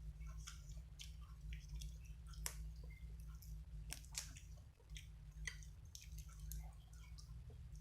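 Close-miked mukbang eating: chewing with many short wet mouth clicks and smacks, irregular throughout, over a steady low hum.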